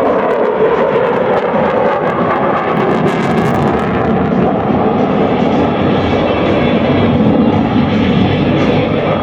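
Aircraft engine roar from a plane flying past, loud and steady, with its pitch falling slowly as it goes by.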